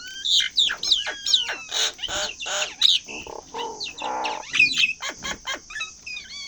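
Mynas, a Nias hill myna and a Javan myna, calling: a busy jumble of whistles that glide up and down, harsh squawks and short chattering notes.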